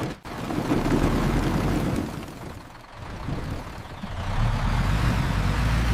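Heavy truck engine rumbling with a noisy rush over it. It dips about three seconds in, then builds up again.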